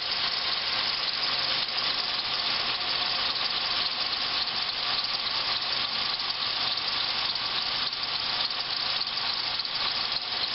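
Pontiac Grand Am GT's 3.4-litre V6 idling steadily just after a cold start, running smoothly.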